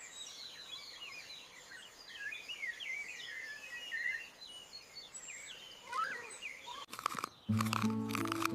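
Small birds chirping and twittering: many short, quick, high chirps over a faint outdoor background. Music comes in near the end.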